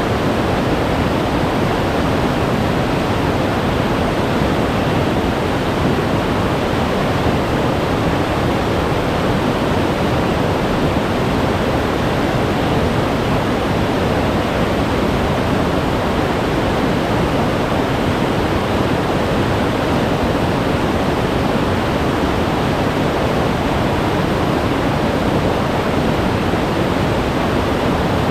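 Glacier-fed mountain stream rushing over rocks: a loud, steady roar of fast meltwater with no letup.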